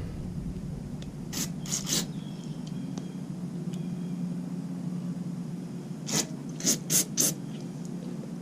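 Compressed air blown through a gummed-up lawnmower carburetor's passages to clear them: three short hissing blasts about a second and a half in, then four more around six to seven seconds, over a steady low hum.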